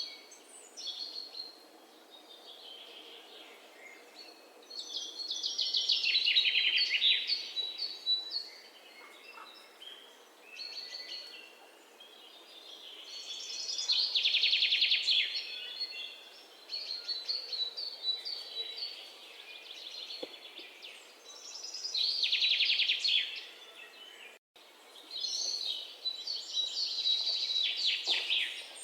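Birds singing: loud trilled phrases of a second or two, repeating about every eight seconds, with softer chirps between them over a faint steady outdoor hiss.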